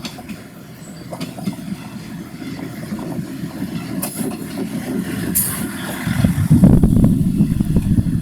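Diesel railcar approaching on the rails, its rumble growing steadily louder and loudest in the last couple of seconds, with two short hisses about four and five seconds in. The sound cuts off suddenly at the end.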